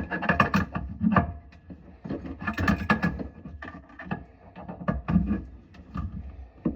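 Irregular knocks, clatter and rubbing of tools and parts being handled during a faucet installation.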